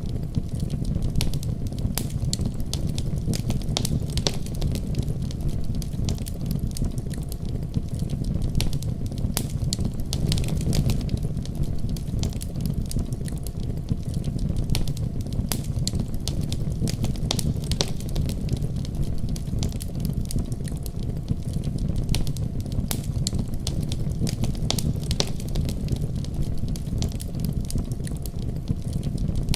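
Wood fire crackling, with many small sharp pops and snaps, over a steady low rumble of a winter storm.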